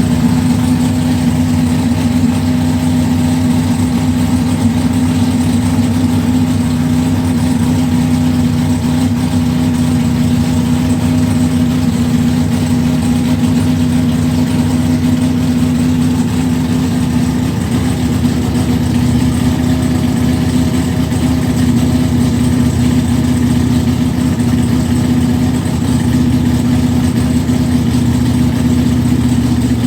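Carbureted 548 cubic-inch big-block Chevy V8 idling loudly and steadily after a cold start.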